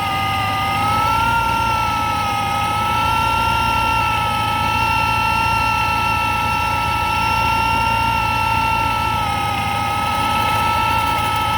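Supercharged Mustang Mach 1 engine idling with a loud, steady high-pitched whine that wavers slightly in pitch, from a bad supercharger (compressor).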